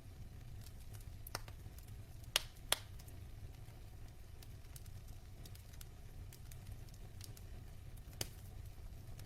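Logs burning in a fireplace: a low steady rumble with scattered small crackles and a few sharper pops, two close together about two and a half seconds in and another near the end.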